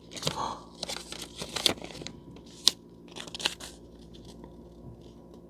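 Paper receipt being handled, crinkling and rustling with a few sharp clicks and taps, stopping after about three and a half seconds.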